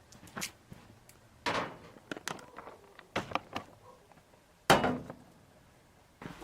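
Objects being handled and set down: scattered light knocks, clicks and a short rustle, with one loud thump a little before five seconds in.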